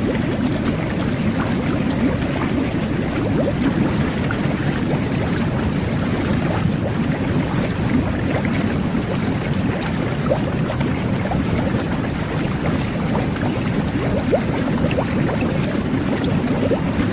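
Jetted bathtub running: water churning and bubbling steadily under the jets.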